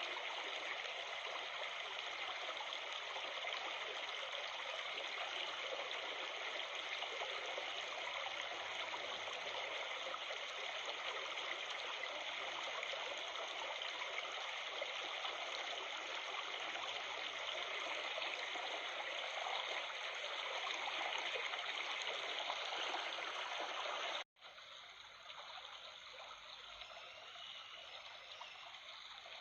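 Stream water babbling and trickling steadily. About 24 s in it cuts out for an instant and goes on quieter.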